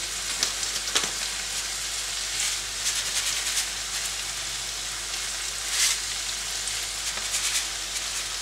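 Chopped onions and red peppers frying in oil in a nonstick pan: a steady sizzling hiss with a few brief louder crackles.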